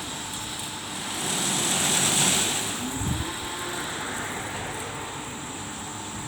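Christ Genius rollover car wash in operation, giving a steady rushing noise that swells about two seconds in, with a brief low thud about three seconds in.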